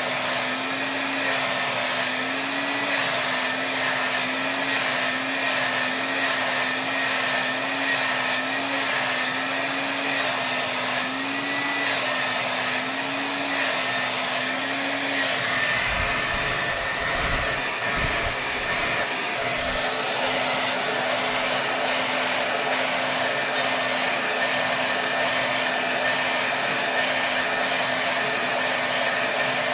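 Hair dryer running on full power: a steady rush of air over a motor hum whose pitch wavers slightly in the first half. About halfway through, a few low rumbles come in for a couple of seconds, and then the hum settles to one steady pitch.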